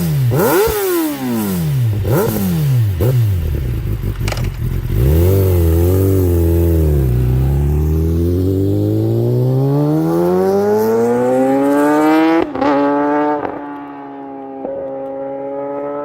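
Kawasaki ZX-10R's inline-four engine revved through its exhaust: a few quick throttle blips, then one long climb in revs held high. About twelve seconds in, the revs drop sharply with a crackle of pops, and it settles into a steady tone.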